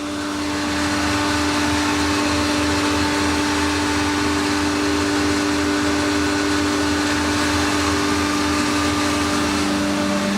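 Vacuum pumps of a transformer oil filter machine running steadily, a constant mechanical hum with a fast low pulsing beneath it.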